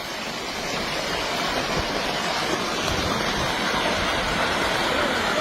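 Steady rushing of fast-moving water, an even roar that grows a little louder over the first two seconds.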